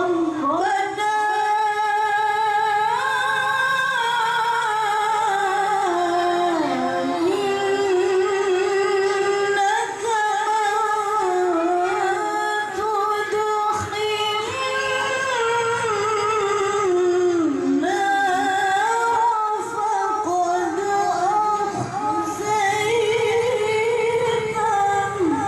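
A woman reciting the Qur'an in melodic tilawah style: long, high, heavily ornamented phrases whose pitch climbs and dips.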